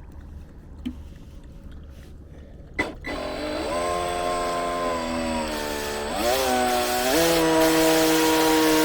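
Electric motor and jet drive of an RC jet ski run up on the bench: a click about three seconds in, then a steady motor whine that steps up in pitch twice near the end.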